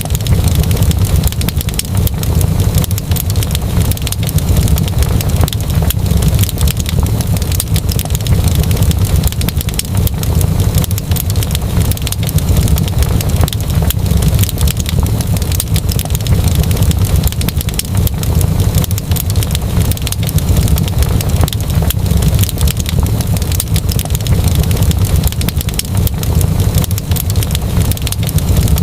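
Crackling wood fire: a steady low rumble of burning with many small, quick pops and crackles scattered over it.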